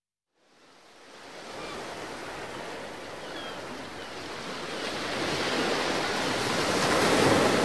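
A steady rushing noise, like surf or wind, fading in from silence and growing louder throughout, with a few faint short high chirps in the first half.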